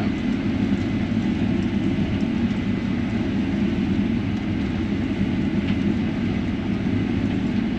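Combine harvester running steadily while harvesting, its engine and threshing machinery making a constant low drone as heard from inside the cab.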